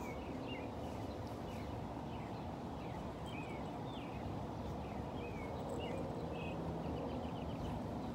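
Small birds chirping, with short rising and falling notes and a quick trill about six seconds in, over a steady low outdoor background rumble.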